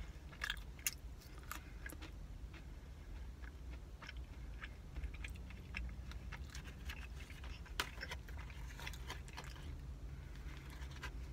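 A person chewing a caramel-pecan cinnamon roll, with soft mouth sounds and scattered small clicks, over a steady low hum.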